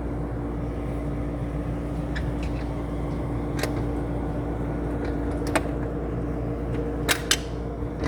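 Steady low motor hum with a few sharp clicks or taps.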